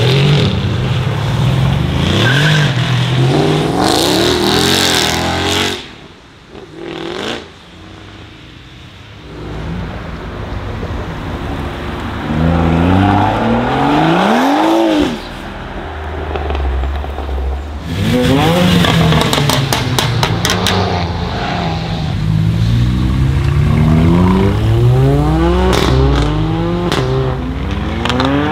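Performance car engines revving hard one after another as the cars accelerate out of a hairpin, pitch climbing through the gears with abrupt drops at the shifts and bursts of exhaust crackle. Near the start the Mercedes C63 AMG Black Series' V8 revs loudly, then a BMW 1 Series hot hatch accelerates away, and a Mercedes CLA 45 AMG pulls out near the end.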